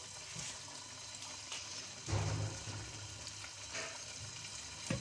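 Chicken curry masala frying in a pot with a steady sizzle, stirred with a ladle as ground browned onion goes in. A louder dull knock comes about two seconds in.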